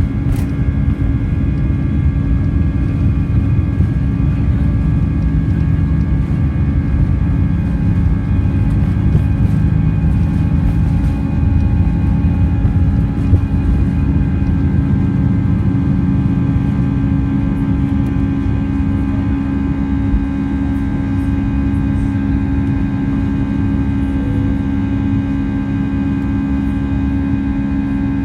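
Airbus A320 heard from inside the cabin: a steady, loud low rumble of engine and airflow noise, with several steady engine tones running through it.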